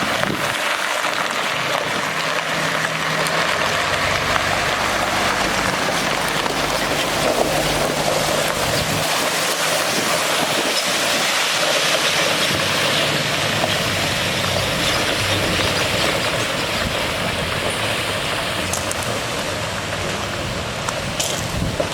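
Water gushing steadily from a water truck's spray system, with the truck's Cummins ISC diesel engine running underneath.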